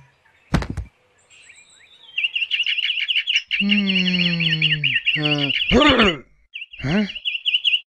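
Bird tweets repeated fast and evenly in a steady loop, with a man groaning a few times over them near the middle. A single click comes just before.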